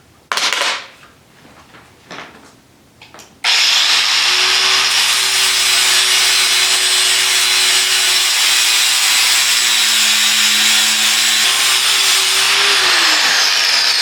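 A Chicago Electric angle grinder starts about three and a half seconds in and runs steadily, grinding. Its pitch falls near the end as it winds down. A few knocks from handling come before it starts.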